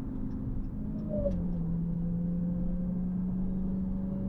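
Supercharged 6.2-litre Hemi V8 of a 2021 Dodge Charger Hellcat running at low, steady revs. Its note drops a little about a second in, then holds.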